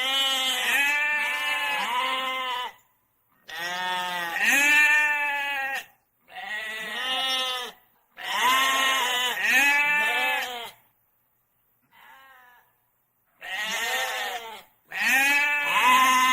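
Bleating from a goat or sheep: about seven separate calls, each a second or two long with a wavering pitch, and one much fainter call about two thirds of the way through.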